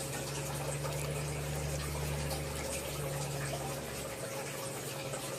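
Aquarium water circulating: a steady trickle of water from the tank's filter or pump, with a low motor hum that drops away about four seconds in.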